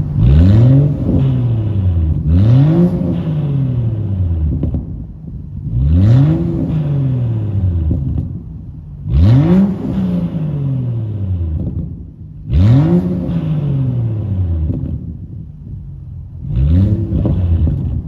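BMW N55 3.0-litre turbocharged inline-six in a 2014 F30 335i, running straight through with the muffler deleted, being free-revved six times. Each time the engine pitch rises sharply and then falls back to idle.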